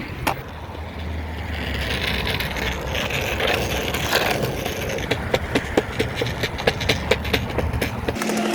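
Electric skateboard rolling on hard ground under remote throttle: a low motor hum under a rough wheel rumble, with a run of sharp clicks from about five seconds in. The hum cuts off near the end.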